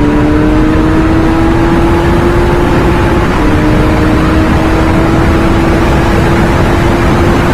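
Motorcycle engine pulling hard at speed, its pitch climbing steadily, dropping once about three and a half seconds in at a gear change, then climbing again, under heavy wind rush on the microphone.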